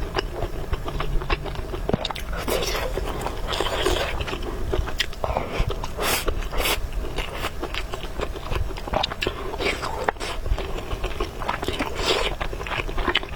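Close-miked eating: noodles being slurped and chewed, with wet mouth clicks and smacks throughout.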